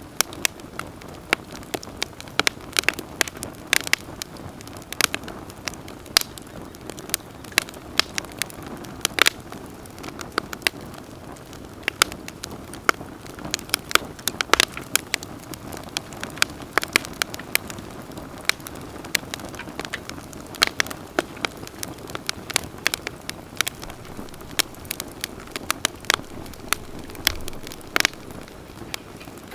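Wood campfire burning and crackling: frequent sharp, irregular pops and snaps over a steady low hiss.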